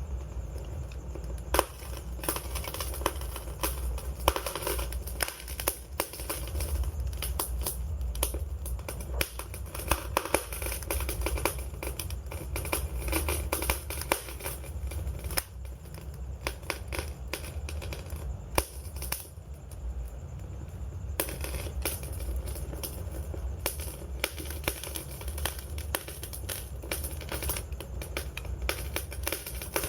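Wood fire crackling: frequent, irregular sharp pops and snaps of burning wood over a steady low rumble of the flames.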